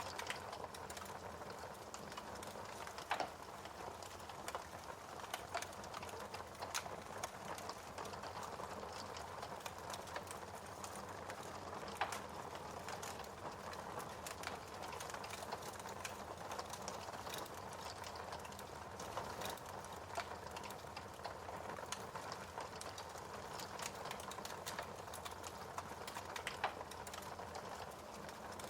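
Fireplace fire crackling: a steady hiss with scattered sharp pops, the loudest about 3, 12 and 26 seconds in.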